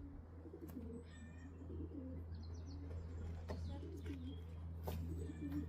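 Domestic racing pigeons cooing, a run of soft, wavering low coos one after another, with a few faint higher chirps, over a steady low hum.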